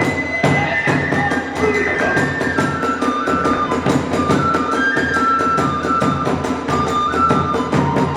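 Kagura hayashi accompaniment: a high bamboo transverse flute plays a held, stepping melody over quick, even drum and hand-cymbal strokes, about five a second.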